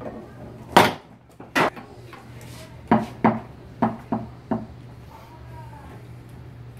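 Foosball play on a Tornado T-3000 table: sharp clacks of the ball being struck by the men and rebounding off the table, seven in all. The loudest comes about a second in, and a quick run of five follows between about three and four and a half seconds.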